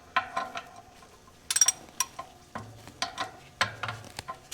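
Metal tools and parts clinking and knocking in a string of short strikes, with one sharper ringing clank about a second and a half in.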